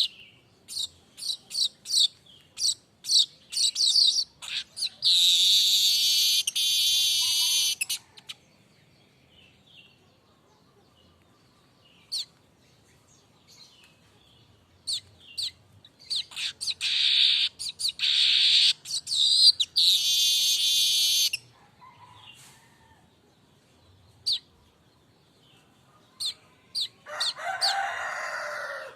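Streaked weaver singing: runs of short, sharp, high ticking notes that lead into long buzzy trills of two to three seconds, in two bouts with quiet gaps between, and a lower buzzy phrase near the end.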